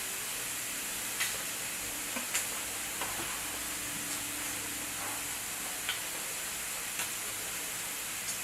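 A steady hiss with a few faint, scattered clicks, typical of food being chewed close to the microphone. A faint steady hum sits under it for a couple of seconds midway.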